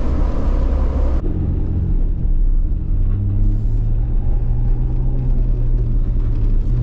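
Jeep LJ's engine running under way, a steady drone whose pitch steps up about a second in and again around three seconds in as it picks up speed.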